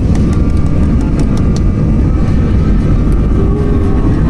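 Airliner's jet engines running with a steady, heavy low rumble and a faint steady whine during takeoff.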